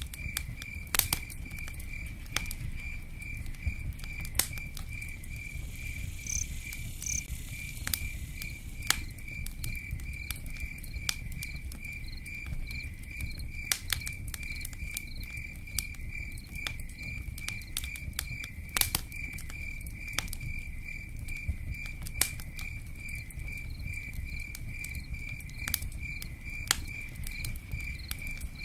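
Campfire crackling with scattered sharp pops over a steady low rumble, while a cricket chirps in an even, unbroken pulse.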